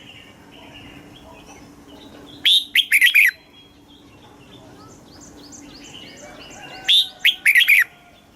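Red-whiskered bulbul singing: two short, loud phrases of quick sweeping whistled notes, one about two and a half seconds in and one near the end. Softer chirps and whistles continue between them.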